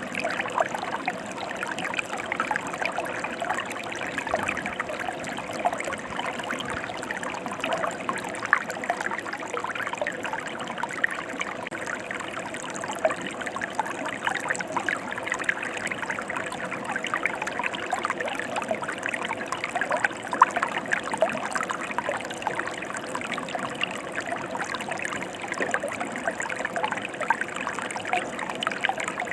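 Mountain stream flowing steadily over rocks, a continuous rush with a constant fine splashing and trickling.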